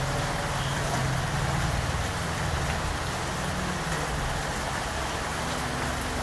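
Steady rain falling, an even hiss of many drops. A low rumble underneath fades out within the first couple of seconds.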